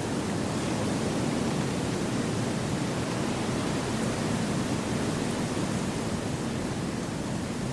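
Wind blowing steadily through forest trees: a continuous, even rushing noise, deepest in the low range, that swells slightly and eases without any gusts or breaks.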